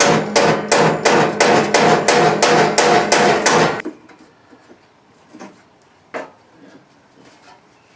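Hammer striking car-body sheet metal in a steady run of ringing blows, about three a second, that stops about four seconds in. After that come a couple of lighter, isolated knocks.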